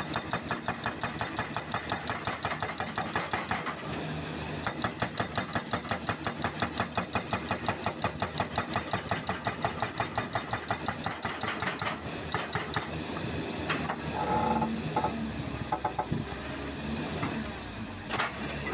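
Hydraulic breaker on a CAT 320C excavator hammering concrete, rapid blows several a second over the diesel engine; the hammering stops about two-thirds of the way through, leaving the excavator engine running.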